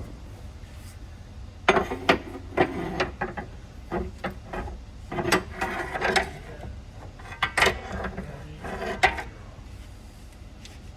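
Irregular metallic clanks and clicks of hand tools and loose parts being handled during axle removal, about a dozen sharp knocks spread over most of the stretch.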